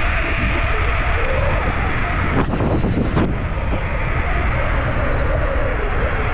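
Wind buffeting the microphone over the rough, steady rolling noise of a mountain bike descending at speed.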